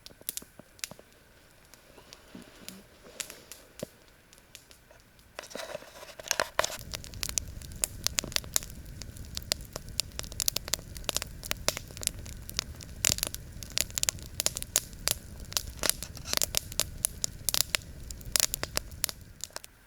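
Campfire crackling and popping, sparse at first, then denser and louder with a low rumble from about six seconds in as the fire burns down.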